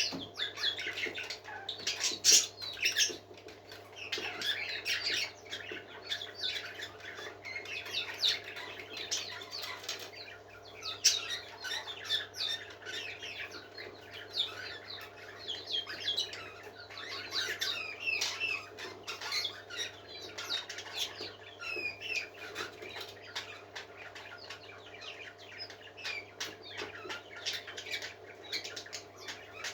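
A group of pet parakeets chattering and warbling continuously, a dense stream of quick chirps with occasional squawks and sharp clicks, over a steady low hum.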